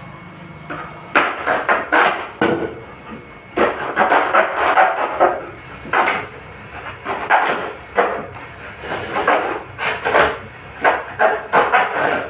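Repeated, irregular scraping and rubbing strokes of hand work on a 15-inch loudspeaker's parts during a repair. The strokes come in quick runs of several, with short pauses between them.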